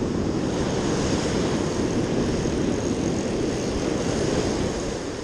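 Steady wind rumbling on the microphone over the noise of breaking surf.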